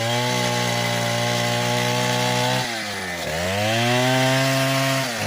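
Stihl 070 two-stroke chainsaw running at high revs. The revs dip sharply and climb back about three seconds in.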